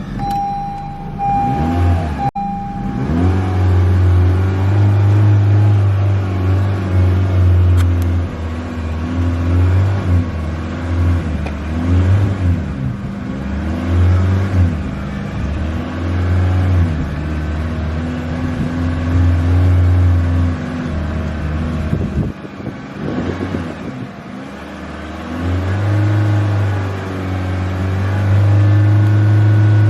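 Honda Civic car with a chime beeping for the first two seconds, then the engine starting and being revved over and over as the accelerator is pumped, the pitch rising and falling in waves. Near the end the revs are held steady.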